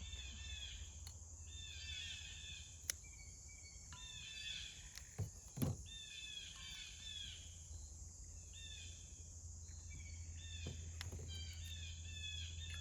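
Songbirds chirping in quick repeated phrases, each about a second long with short pauses between them, over a steady high buzz. A sharp click comes about three seconds in, and two louder knocks follow about five seconds in.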